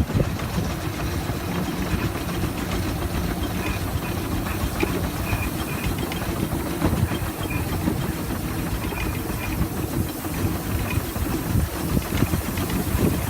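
6-inch scale Burrell showman's steam traction engine running on the road, with steam hissing over its steady mechanical running noise.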